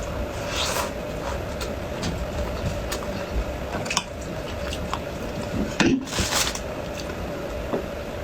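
Close-miked eating sounds: wet chewing with short clicks of utensils, over a steady hum. The loudest moment is about six seconds in.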